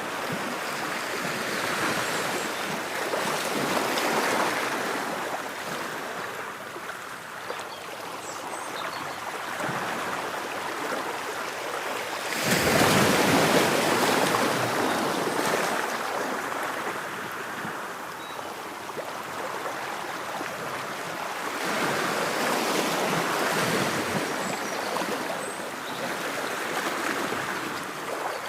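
Ocean waves washing on a shore, rising and falling in slow swells. The biggest wave breaks about halfway through.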